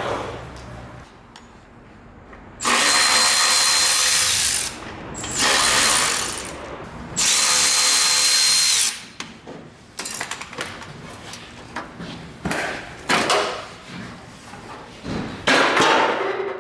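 Power drill running in three bursts of about two seconds each, with a steady high whine. Clicks and knocks of parts being handled follow, then one shorter burst of the tool near the end.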